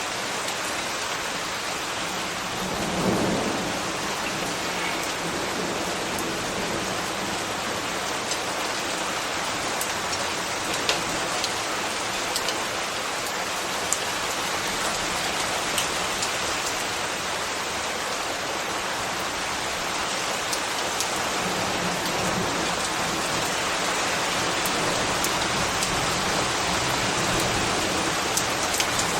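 Steady rain falling on hard surfaces, an even hiss with scattered sharper drip ticks. A brief low rumble swells about three seconds in, and a softer low rumble builds toward the end.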